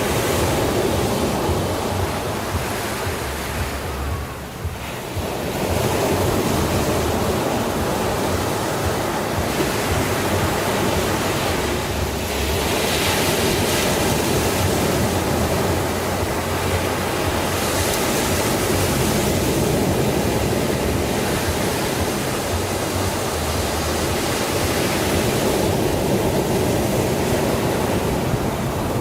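Sea waves breaking and washing on the shore in a continuous surf. It eases off briefly about four seconds in, then a new wave swells up, with further surges through the rest.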